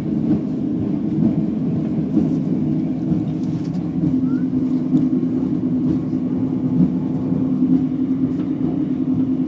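Talgo passenger train running at speed, heard from inside the carriage: a steady low rumble of wheels on track, with a steady hum coming in about four seconds in.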